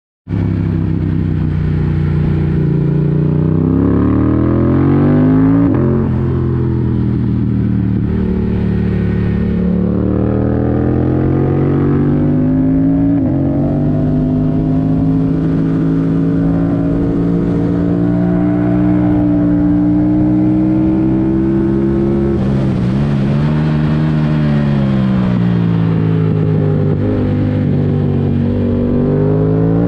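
A 2022 Yamaha R7's parallel-twin engine, airbox removed and breathing through a Mivv Delta Race exhaust, pulling hard on track. The pitch climbs, drops sharply at each upshift, then holds a long, slowly rising pull. Near the end it falls and wavers as the rider backs off for a corner, then climbs again.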